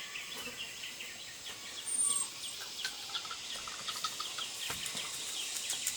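Chickens calling: a quick run of short, falling chirps, several a second, with a brief high whistle about two seconds in.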